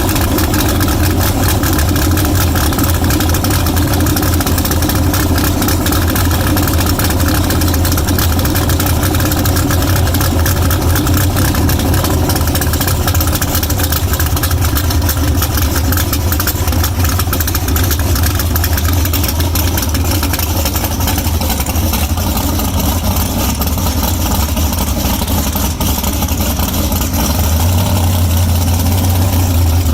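A car engine idling steadily, low in pitch, getting a little louder near the end.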